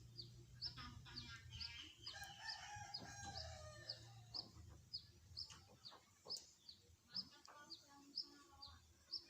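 Birds calling: a steady run of short, high chirps about two a second, with a longer, lower call about two seconds in.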